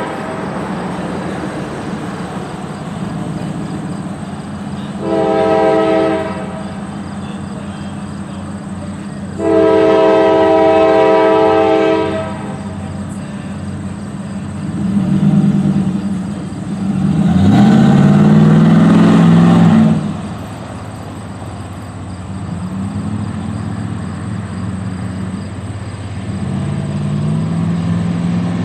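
Norfolk Southern GE diesel locomotives, a C44-9W and an AC44C6M, running steadily with the air horn sounding for a grade crossing: a short blast about five seconds in, then a long blast of about three seconds. Later the locomotive engines rise to a loud surge for a few seconds as they work past.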